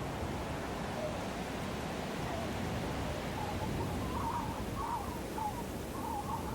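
Steady snowstorm wind blowing as an even rushing noise. In the second half, a few short wavering calls come through in quick clusters.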